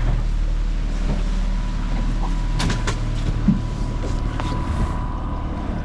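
Motorboat engine running steadily while the boat is under way, with a thin steady whine that strengthens near the end and a few sharp ticks about halfway through.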